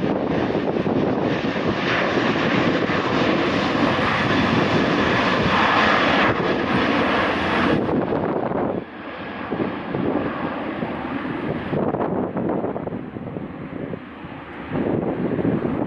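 Jet airliner's engines at takeoff power, a loud steady roar for about eight seconds that then drops off and carries on more quietly.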